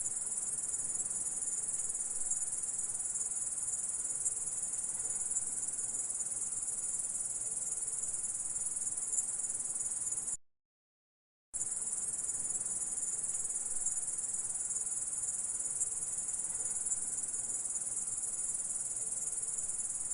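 Grasshopper stridulating: a steady, high-pitched, dense buzzing chirr. About ten seconds in it cuts off to dead silence for about a second, then resumes just as before.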